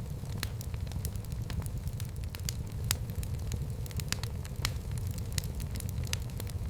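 Wood fire burning in a fireplace, a steady low rumble of flame with frequent irregular crackles and pops, several a second.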